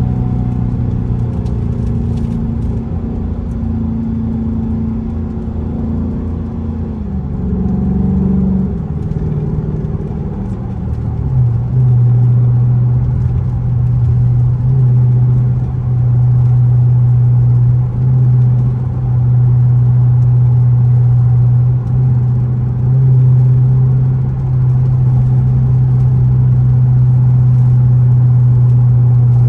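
Loud exhaust of an R/T car under way. Its engine note steps down in pitch twice in the first ten seconds, then from about eleven seconds in it settles into a loud, steady low drone at cruising speed.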